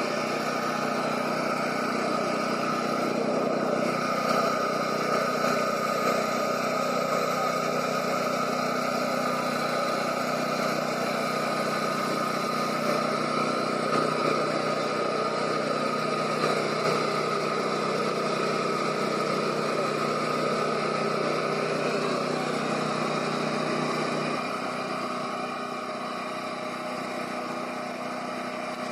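A vehicle running steadily: a continuous mechanical hum with a few held tones, dropping slightly in level about 24 seconds in.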